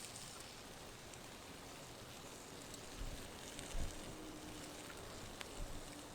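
Campfire burning with a quiet, steady hiss, with a couple of soft low thumps about three and four seconds in.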